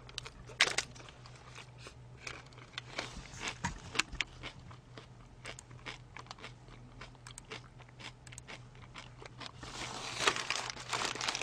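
Close-miked chewing of a chicken burger: many short, sharp crunching clicks from the mouth, which grow denser near the end.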